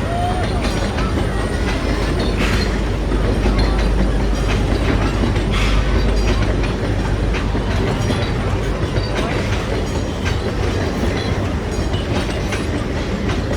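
Puffing Billy narrow-gauge steam train running, a steady rumble with many short clicks and clacks from the wheels and carriages.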